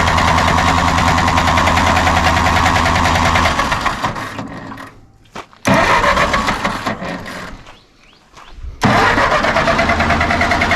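Starter cranking a 1946 Massey Ferguson tractor's engine in three goes, each starting sharply and the first two fading away, without the engine catching and running. The owners suspect the engine is not getting spark all the time.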